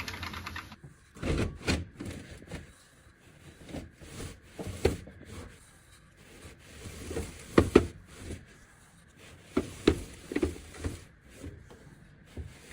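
Irregular knocks and rubbing of things being handled, a dozen or so separate clunks with a few louder ones around the middle.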